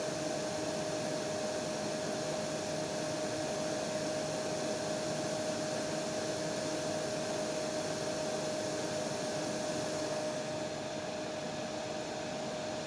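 Hair dryer running steadily: an even rush of blown air with a steady motor hum.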